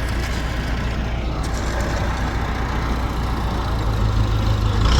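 Heavy engine running steadily with a deep hum, growing a little louder near the end.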